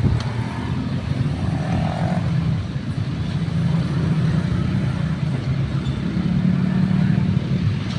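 Babaranjang coal train running, a steady low rumble that does not let up.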